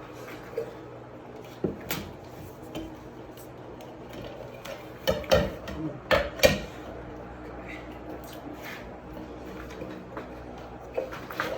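Knocks, clatters and rattles from handling a grow-tent exhaust fan, its ducting and a carbon filter while they are fitted together. The loudest are a cluster of knocks about five to six and a half seconds in.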